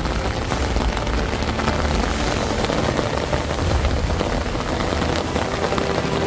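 Heavy rain pouring down in a storm, with a deep, continuous low rumble underneath.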